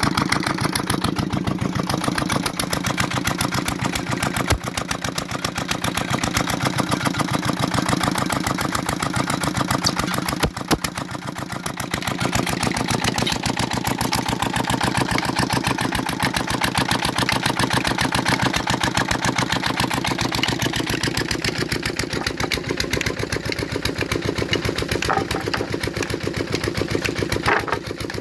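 Petter diesel engine running steadily with an even, rapid chugging of firing strokes; the level dips briefly about ten seconds in.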